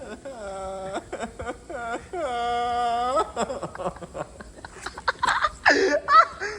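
A person's voice making drawn-out wordless vocal sounds: several sliding calls and one long held note about two seconds in, then breathy laughing toward the end.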